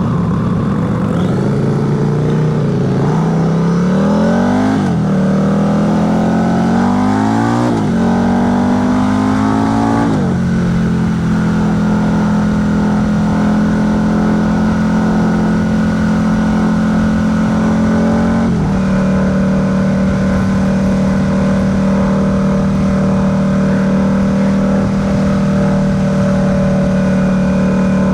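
2019 Harley-Davidson Heritage Classic 114's Milwaukee-Eight V-twin accelerating through the gears: its pitch climbs and drops back at three upshifts in the first ten seconds. It then settles into a steady cruise, with one more shift about two-thirds of the way through, over wind and road noise.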